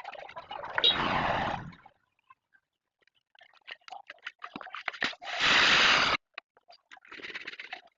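Washing noises on a Honda Win100 motorcycle: four short bursts of hissing noise with crackling between them. The loudest and fullest burst comes about five and a half seconds in.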